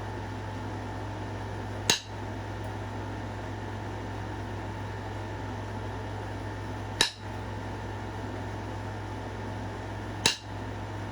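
Flintknapping on a flake of Knife River flint: three sharp clicks of stone being struck or flaked, spaced several seconds apart, over a steady background hum.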